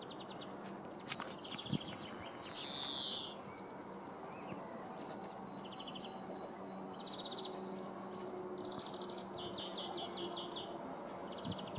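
Small songbirds singing outdoors: twice a song of a high thin note dropping into a fast, even trill, with shorter trilled phrases in between.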